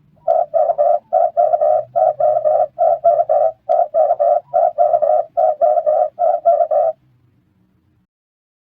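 Red collared dove cooing: a fast run of short throaty coos, repeated in quick groups for about seven seconds and then stopping.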